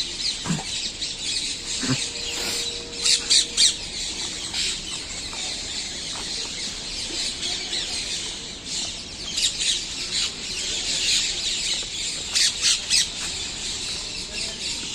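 A crowd of birds calling and chattering in trees at dawn chorus, with small groups of louder, sharp calls about three seconds in and again near the end.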